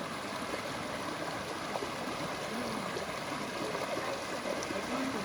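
A stream flowing: a steady, even rush of running water, with faint voices in the background a few times.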